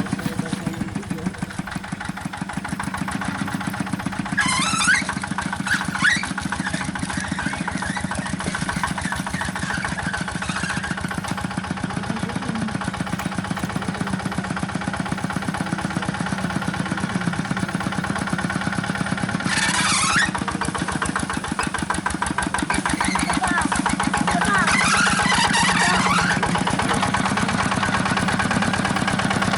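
Small engine running steadily with an even, rapid chug. Brief high squeaks come through a few times over it.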